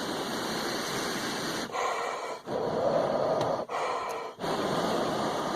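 A man blowing long breaths of warm air, about four in a row with brief pauses between them, onto a bird's feet to thaw them off a frozen metal fence.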